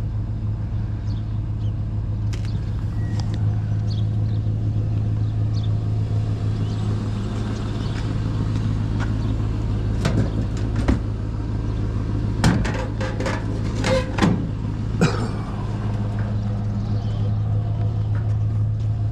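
Vehicle engine running with a steady low hum, with a cluster of sharp knocks and clatters between about ten and fifteen seconds in.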